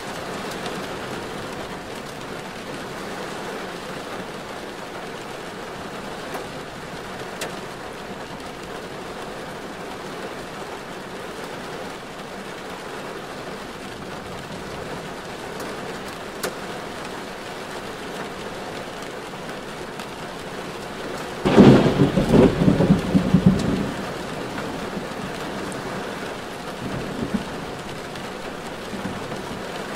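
Steady rain falling, with a sudden loud crackling rumble about two-thirds of the way through that lasts about two seconds before the rain noise returns.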